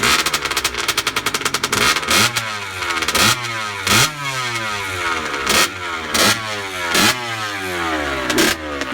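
Cold two-stroke engine of a Kawasaki KX65 dirt bike running just after a kick start. It runs fast and even for about two seconds, then the throttle is blipped over and over, each rev shooting up and falling back, about once a second.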